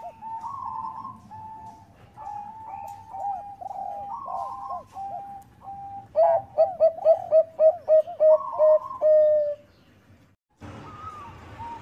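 Zebra dove (perkutut) cooing in repeated short, rolling phrases. About halfway through it breaks into a louder, rapid run of about ten coos. After a brief silence, fainter cooing resumes over a steady hiss.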